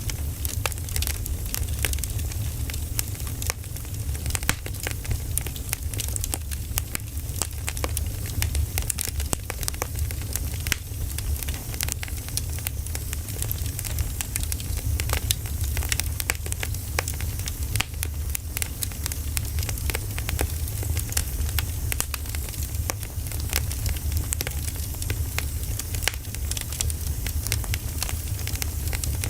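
Burning firewood crackling steadily, with frequent sharp pops over a low rumble.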